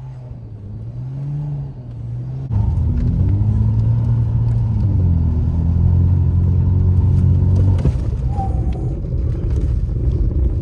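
BMW 335i's straight-six engine running under throttle, its pitch wavering. About two and a half seconds in it gets much louder and holds high revs, with the pitch stepping up and down as the car is driven hard on snow.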